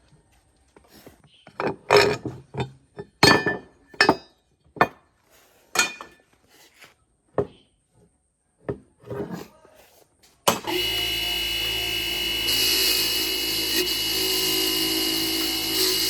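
Scattered knocks and clinks of workshop parts being handled. About ten seconds in, a power tool starts abruptly and keeps running steadily with a low hum and a high hiss, which grows louder a couple of seconds later.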